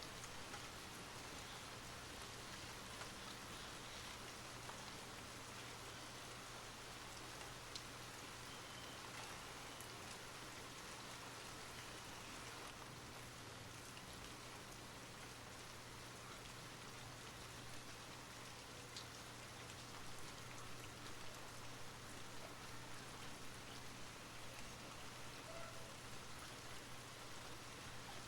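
Steady soft rain falling, with occasional individual drops ticking on a surface, over a faint steady low hum.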